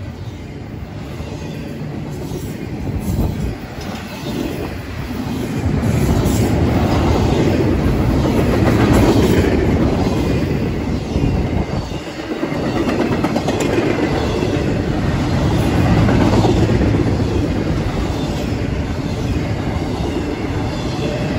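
Double-stack intermodal freight cars rolling past on steel rails: a steady heavy rumble with wheels clattering over the track, growing louder about six seconds in and dipping briefly around halfway.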